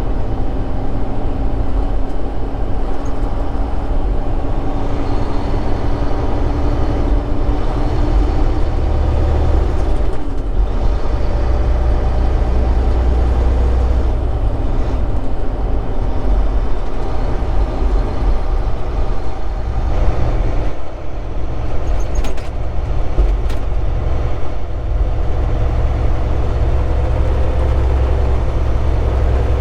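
Semi truck's diesel engine running under way, with steady low rumble and road noise heard from inside the cab. The engine pitch shifts a few times, and the level dips briefly about 21 seconds in.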